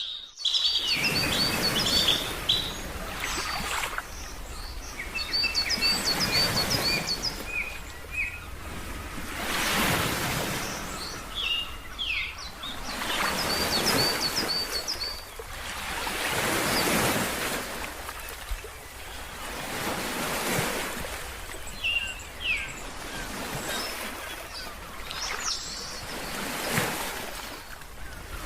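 Ocean surf washing in and out in swells every few seconds, with birds chirping over it in quick runs of high notes.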